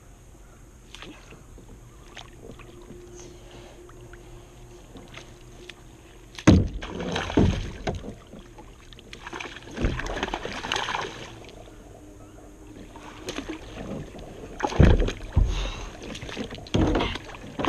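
Water splashing and sloshing with knocks and handling noise as a hooked fish is fought and brought to the side of a kayak. The first six seconds or so are quiet, then come several loud bursts of splashing.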